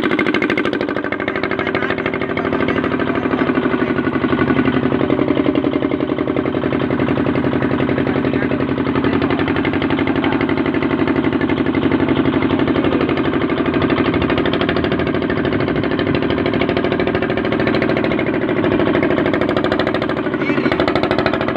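An engine running steadily at an even speed, with a fast, regular knocking beat.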